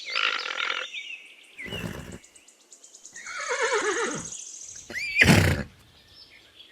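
Alpaca calling: a series of four high-pitched calls, the longest, about halfway through, sliding down in pitch.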